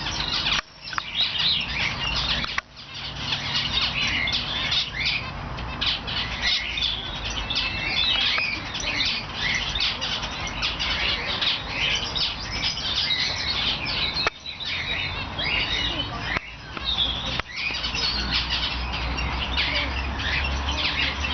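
A dense chorus of many small caged birds chirping and twittering at once, short high calls overlapping without a break, except for a few very brief dropouts in the sound.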